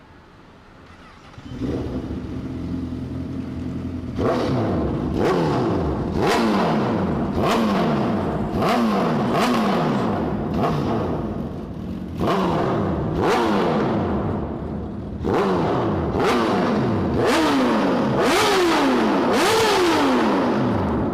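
Honda CBR1000RR inline-four engine through a D&D aftermarket exhaust: it comes in at a steady idle about a second and a half in, then is revved in quick blips about once a second, each one snapping up and falling back in pitch.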